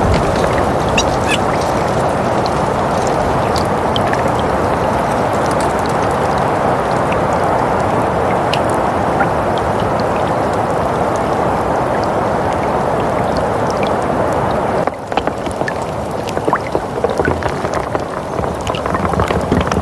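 Steady soft winter wind with faint scattered ticks and crackles. It drops out briefly about fifteen seconds in, then comes back gustier with more crackles.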